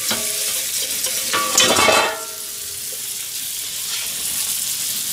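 Hamburger patties frying and sizzling in a frying pan. A metal spatula scrapes against the pan once, about a second and a half in, and is the loudest sound.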